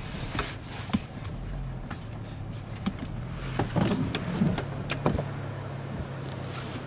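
Car running steadily, heard from inside the cabin as a low hum, with several sharp clicks and knocks along the way and a louder rough patch around the middle.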